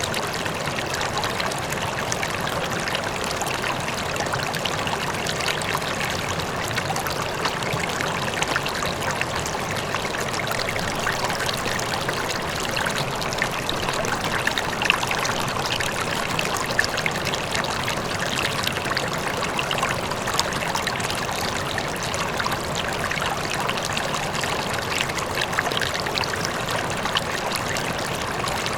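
River water flowing steadily over stones, a continuous babbling rush with small splashes, a faint waterfall in the distance blending into the flow.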